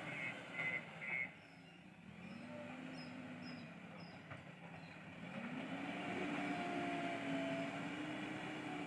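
Diesel engine of a JCB 3DX backhoe loader working, its pitch rising and falling as the hydraulics are loaded, then revving up and holding higher from about halfway through. A reversing beeper sounds a few times at the start and stops about a second in.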